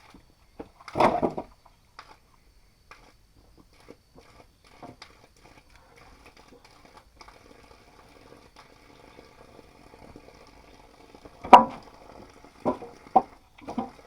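A pot of liquid bubbling faintly and steadily. There is a short rush of noise about a second in and a few sharp knocks near the end, the first knock the loudest.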